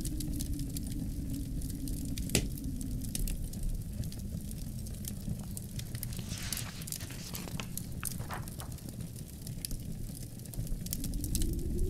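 Wood fire crackling with many sharp pops, one louder pop a couple of seconds in, over a low, steady rush of wind that eases off late on and builds again near the end.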